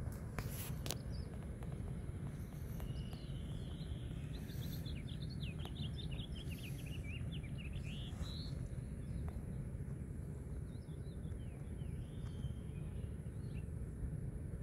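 Outdoor ambience: a steady low rumble, with a bird singing a rapid run of short, high chirps from about four to nine seconds in and a few fainter chirps after. Two sharp clicks come right at the start.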